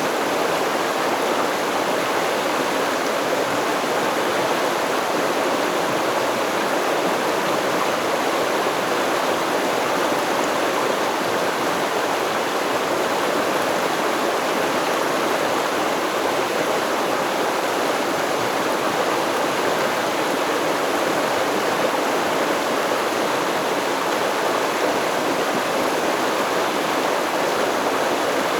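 Steady rush of a flowing stream, an even churning water sound with no breaks.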